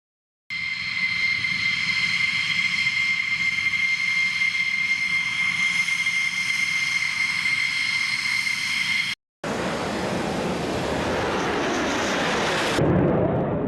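Jet engine sound in two pieces: first a steady whine made of several high tones over a rushing hiss, then, after a short break, a broad rushing noise whose pitch falls as it swells, loudest near the end and then fading.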